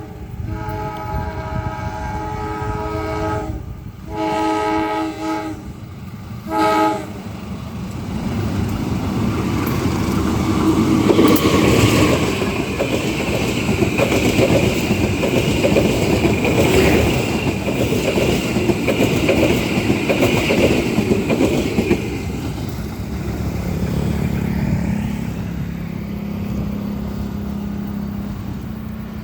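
A diesel-hauled passenger train sounds its multi-tone horn in several blasts, then passes close by with loud rumbling wheel and carriage noise and a high ringing squeal from the wheels. Near the end the train noise fades and a low engine hum takes over.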